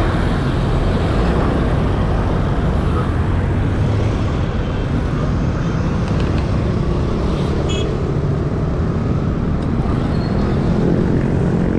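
Wind rushing over the camera microphone while cycling: a steady, heavy rush with a strong low rumble.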